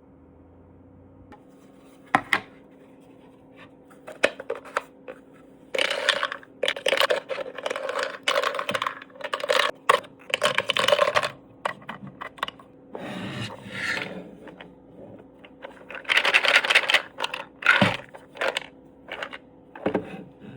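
Hard plastic 3D-printed chess pieces clattering and clicking in bursts, with some scraping, as they are handled.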